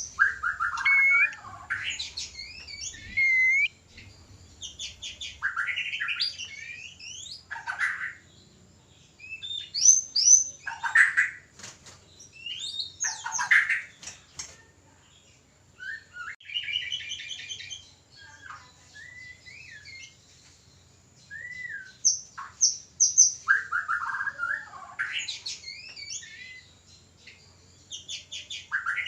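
White-rumped shamas (murai batu) giving mating calls: varied phrases of clear whistles, slurred up-and-down notes and fast rattling trills, each burst a second or two long with short pauses between.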